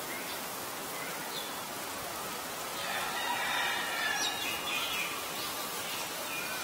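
Background birdsong: scattered short chirps and thin whistled calls over a steady hiss, busiest in the middle.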